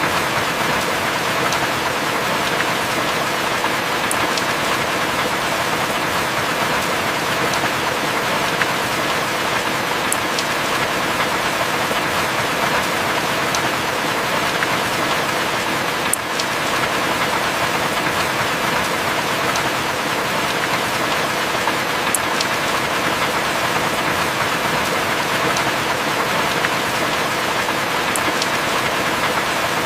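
Heavy rain falling steadily: a dense, even hiss of rain, with a few sharp drop ticks about every six seconds.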